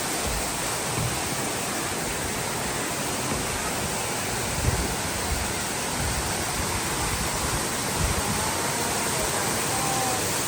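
Water pouring down a waterfall, a steady, even rushing.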